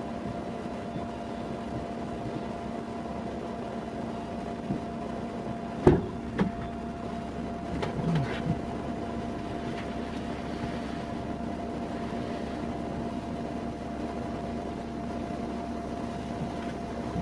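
A steady mechanical hum with two held tones, as in a vehicle cabin, broken by a sharp click about six seconds in and a few softer knocks shortly after.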